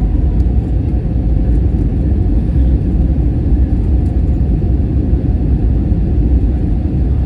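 Steady low rumble of an Airbus A321 airliner heard from inside the passenger cabin: engine and airflow noise, even throughout with a faint steady hum.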